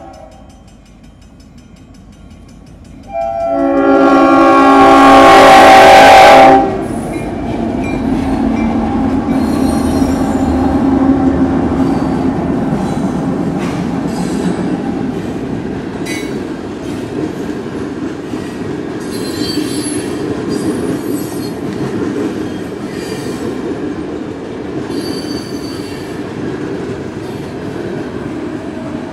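A diesel locomotive's air horn sounds a single chord for about three seconds as a coal train reaches a grade crossing; it is the loudest sound. Then the locomotives pass with a steady heavy rumble, followed by loaded coal hoppers with clicking wheels on the rail joints and a few brief high wheel squeals.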